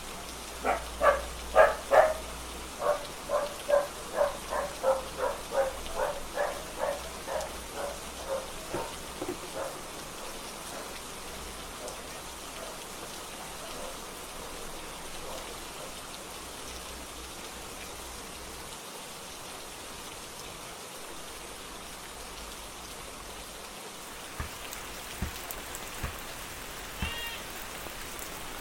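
Steady rain falling. For the first nine seconds or so an animal calls over and over, about two short calls a second, growing fainter; a few faint clicks come near the end.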